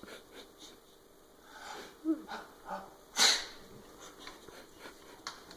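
A dog making a few short, falling whines, then one loud, sharp snort through the nose a little over three seconds in.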